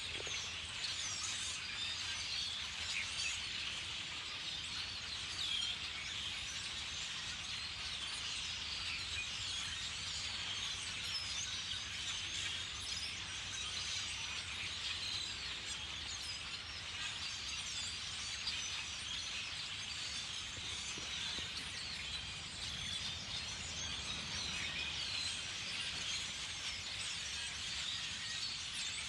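A large flock of black birds calling all at once, a dense, unbroken chatter of squeaks and whistles.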